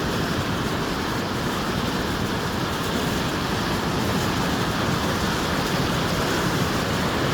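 Floodwater rushing down a wadi channel in a flash flood: a steady, even rush of water noise.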